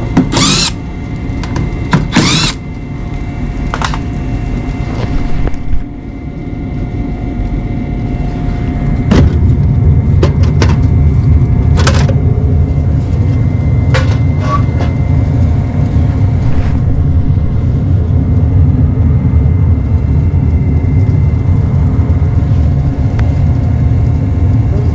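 Trane gas furnace running: a few sharp knocks early on, then a low, steady rumble that builds up over about three seconds and holds, with a faint steady tone above it.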